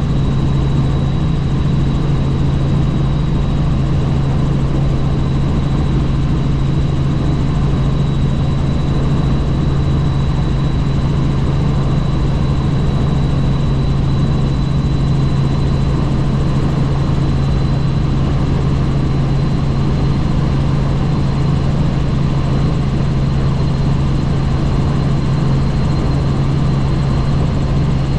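Helicopter in flight heard from on board: a steady, loud low drone of rotor and engine, with a thin high whine held throughout.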